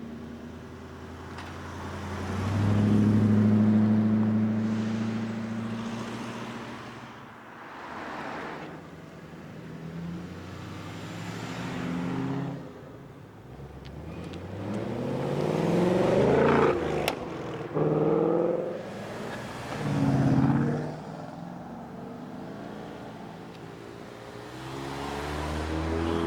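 Cars leaving a meet one after another with loud performance exhausts: a steady engine drone swells and fades in the first few seconds. Later an engine revs hard with rising pitch, followed by two short loud blips about two seconds apart, and another engine builds near the end.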